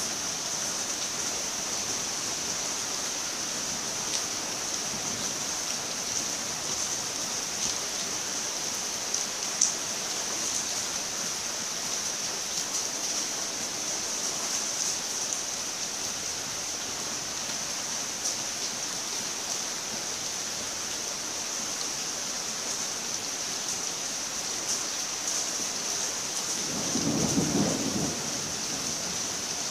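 Steady rain hiss with scattered drop ticks, one sharper tick about ten seconds in. Near the end a brief low rumble swells and fades: distant thunder.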